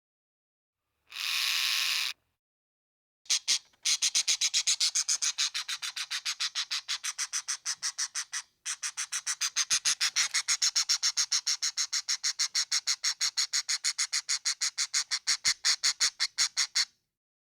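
A short burst of hiss, then a long, regular run of rapid high chirps, about five a second, with one brief break midway; an animal call.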